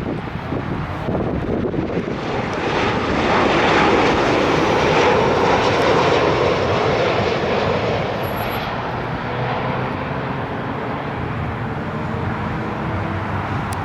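Arriving airliner's engines passing overhead on approach: a rushing roar that swells to its loudest about four seconds in, then slowly fades with a faint falling whine.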